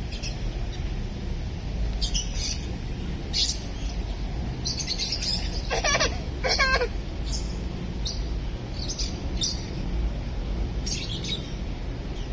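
Parrot giving short, high chirps every second or two, with two louder, swooping calls about six seconds in, over a steady low background hum.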